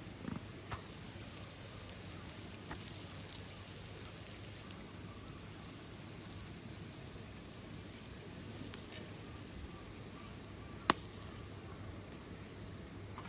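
Quiet sizzling and crackling of food cooking over a campfire, with a few light pops and one sharp snap about eleven seconds in.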